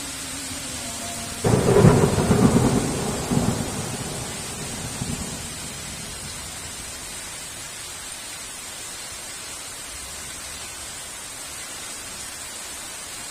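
A thunderclap breaks suddenly over steady heavy rain about one and a half seconds in, rumbling in a few pulses and dying away within about four seconds, leaving the steady rain.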